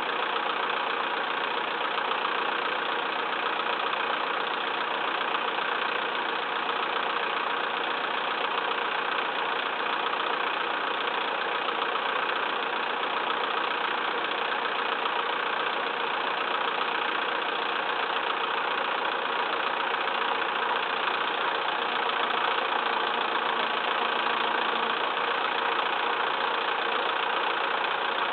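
Massey Ferguson 2635 tractor's diesel engine running steadily at an even level.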